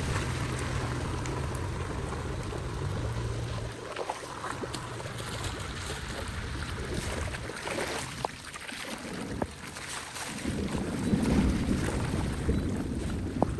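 Floodwater rushing and churning as it drains, with wind buffeting the microphone. A low rumble drops away about four seconds in, and there are a few short clicks.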